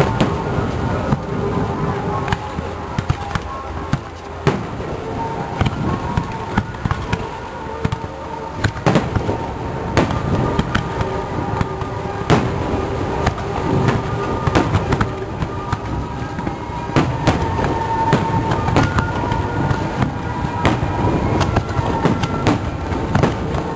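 Aerial fireworks shells bursting in quick succession, a dense run of sharp bangs and crackles, with music playing underneath.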